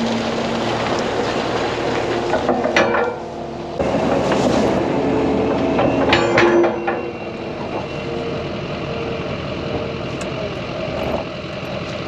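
A vehicle engine running under a constant noisy background, its pitch shifting a few times, with scattered metallic clanks and rattles.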